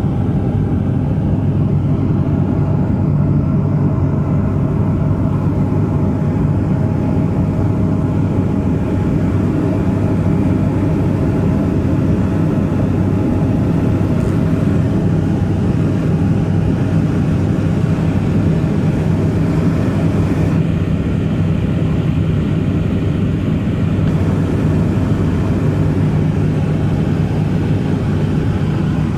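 Let L-410's twin turboprop engines running with a steady, loud drone.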